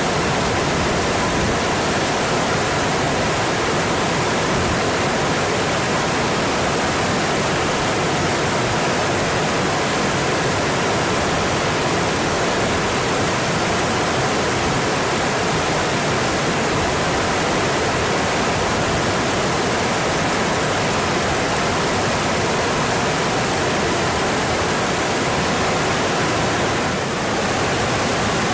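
Mountain stream running steadily: a dense, even rush of water.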